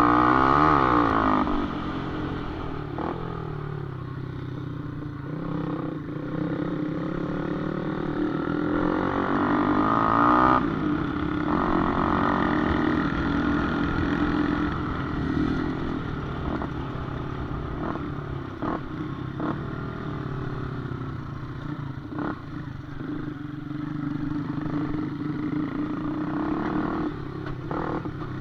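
Motorcycle engines revving and running, their pitch rising and falling with the throttle, loudest near the start and again about ten seconds in. A few short knocks or clatters come through in the middle.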